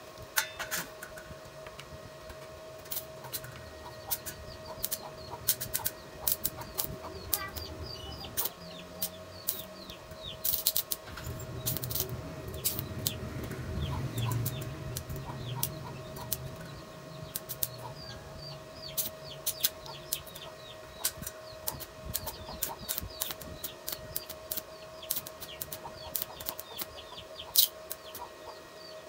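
Birds chirping in many short, sharp calls scattered throughout, over a thin steady hum.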